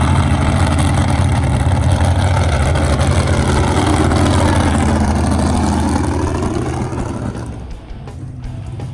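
A pulling-competition engine running loud and hard under load, then falling away about three-quarters of the way through.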